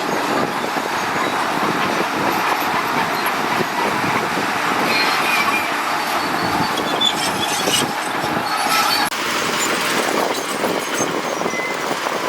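Crawler bulldozer working, its engine running under load while the steel tracks grind, with short high squeaks from the track chains.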